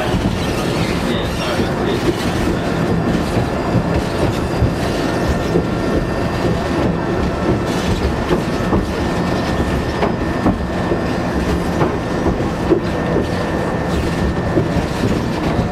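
Train running along the tracks: a steady rattling clatter of wheels with a faint, thin, high squeal held throughout.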